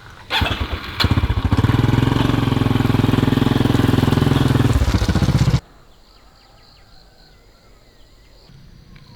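A motorbike engine starts with a short crank, then runs steadily for about four and a half seconds before cutting off abruptly.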